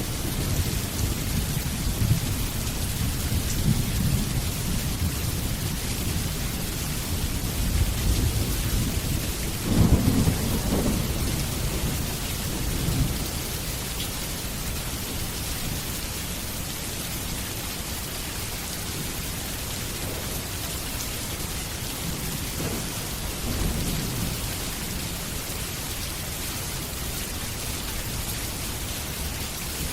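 Steady rain with rolls of thunder; the loudest rumble comes about a third of the way in, with fainter ones later.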